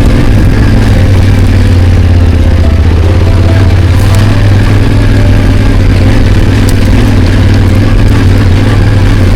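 Motorcycle engine running at a steady, even pace while the bike climbs a rough track, with a few faint ticks over the engine.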